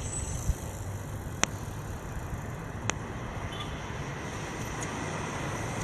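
Steady road and wind noise of a bicycle ride on a wet evening, with two sharp clicks about a second and a half apart.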